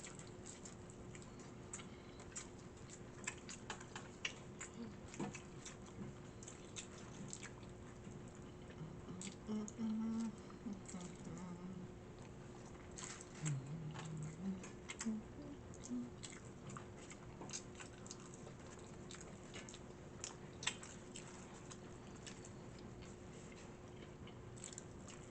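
A person chewing and biting into fish and fries, close to the microphone: faint, with small scattered crunches and mouth clicks and a few brief low hums about ten and fourteen seconds in.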